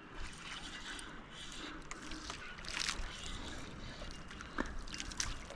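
Water sloshing and splashing at the water's edge, with a few brief clicks or splashes standing out about three seconds in and near the end.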